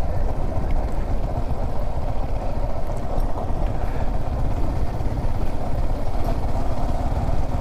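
Yamaha R15 V4 motorcycle's 155 cc single-cylinder engine running steadily while ridden, heard as a constant low rumble through the rider's camera mic.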